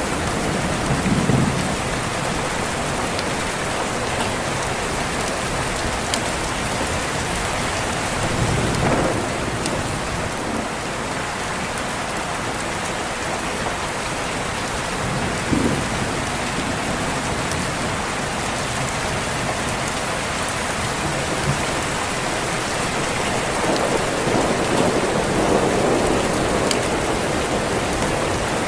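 Steady heavy rain, with distant thunder rumbling in a few times; the longest roll comes near the end. Faint scattered crackles of a fireplace sit under the rain.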